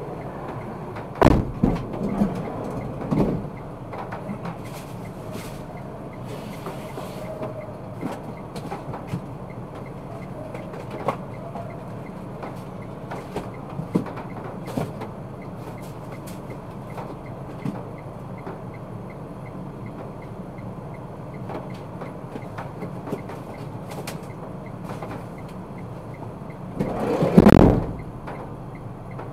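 Car running, its road and engine noise heard through a dashcam, with a few knocks and bumps about a second in and one louder thud near the end.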